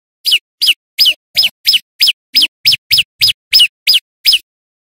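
Male prenjak lumut calling: a series of thirteen sharp, high notes, each sliding quickly downward, repeated about three times a second and stopping abruptly near the end.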